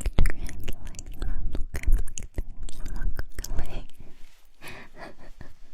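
Close-miked ASMR mouth sounds: a rapid, irregular run of wet lip and tongue clicks and smacks with breathy, whisper-like noise, thinning out after about four seconds.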